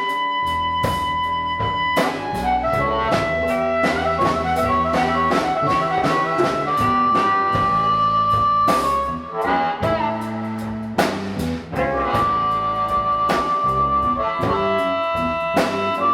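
Live blues band playing an instrumental passage: a lead instrument holds long notes over drum kit and bass, with regular drum hits throughout.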